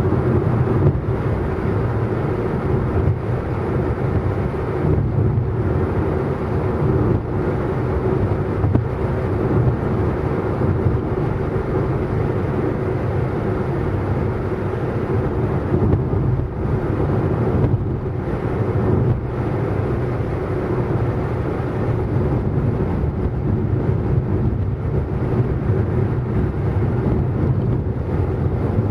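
Car driving fast: a steady, unbroken rumble of engine and road noise that neither rises nor falls.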